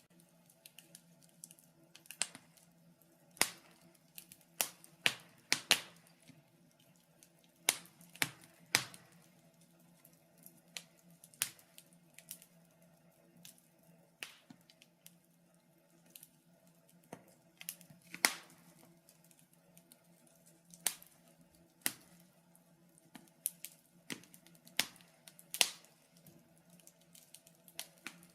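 Wood fire crackling in a fireplace: sharp pops and snaps at uneven intervals, one or two a second, over a faint steady hum.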